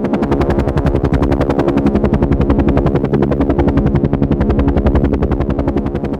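Helicopter rotor beating in a rapid, even rhythm, with a steady engine hum underneath.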